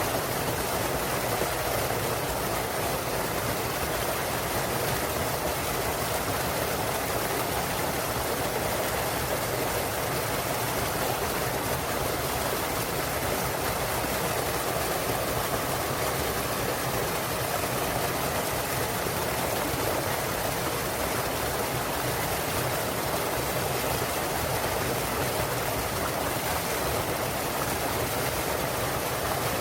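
Small waterfall and clear mountain stream rushing, steady and unbroken.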